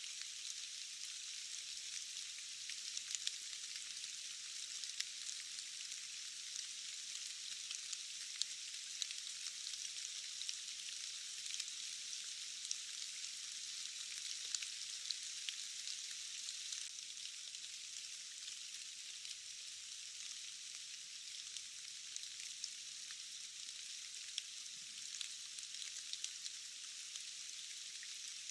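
Steady rain, an even hiss with many small drop ticks scattered through it; the lower sounds are cut away, leaving only the higher hiss.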